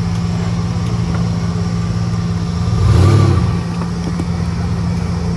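Off-road 4x4 engine running steadily, with a brief rev about three seconds in.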